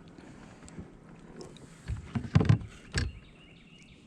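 Knocks and bumps on a kayak, the loudest a short cluster about two seconds in and a sharp knock about a second later.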